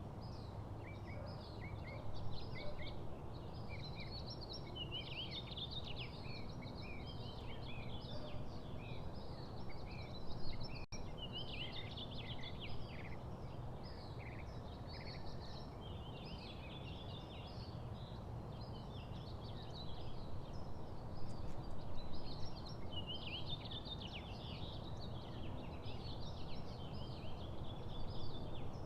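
Many small songbirds chirping and twittering in quick, overlapping short calls around a backyard feeder, over a steady low background hum.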